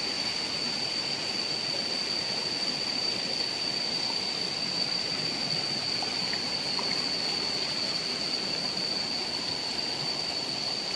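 Waterfall water rushing and splashing in a steady, even flow. A steady high-pitched whine sits over it throughout.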